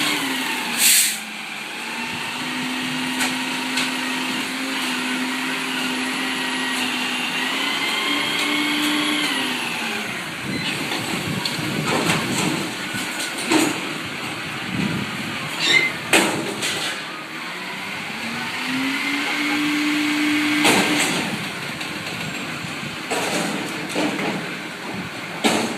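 Front-load garbage truck engine held at raised revs, dropping off about ten seconds in and revving up again near twenty seconds, with several sharp bangs along the way.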